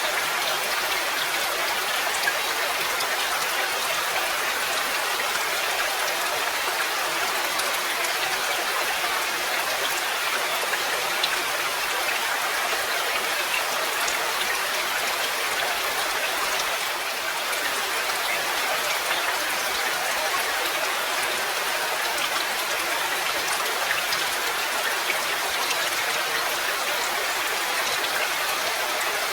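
Steady rain falling: an even hiss with faint scattered drop ticks and no change in strength.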